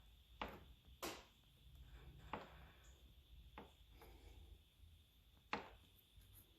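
Sunroof rail of a 2013 Subaru WRX popping where it is bolted to the car's body as the rail is moved by hand: five sharp pops at uneven intervals, the last the loudest. This is the sunroof rattle, coming from the rail's bolted mounting.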